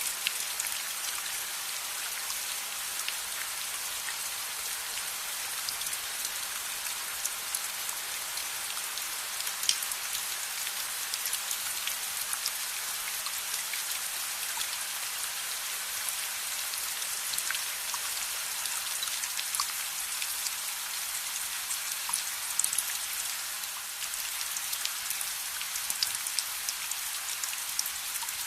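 Steady rain, with many scattered sharp ticks and crackles over the even hiss.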